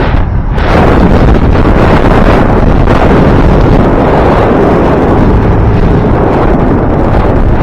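Loud, steady wind buffeting the microphone of a rider on a moving e-bike, with a brief lull about half a second in.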